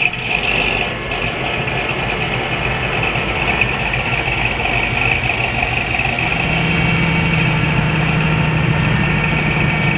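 Car engine idling steadily, with a deeper low engine note joining about six seconds in.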